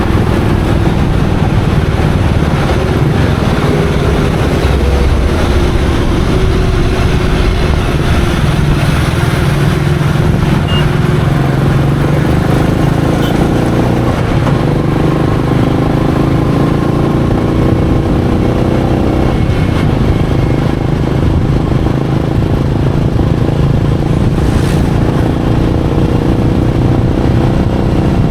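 Royal Enfield Meteor 350's single-cylinder engine running under way, its revs rising and falling as the bike moves through traffic.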